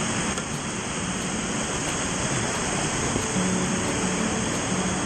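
Steady rush of river whitewater, an even hiss and roar with no break.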